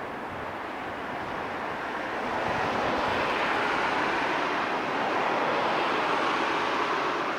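Electric multiple-unit train running past, a steady rolling rumble of wheels and motors that grows louder about two and a half seconds in and then holds.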